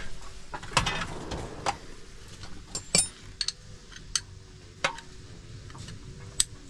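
Hand tools clinking and tapping on metal: about eight sharp, irregular metallic clicks, one with a brief ring about three seconds in, as sockets and wrenches are worked on the suspension bolt.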